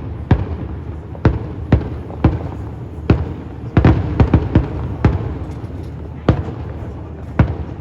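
Aerial fireworks exploding in a quick, irregular string of sharp bangs, about two a second with a few in fast succession near the middle, over a steady low rumble.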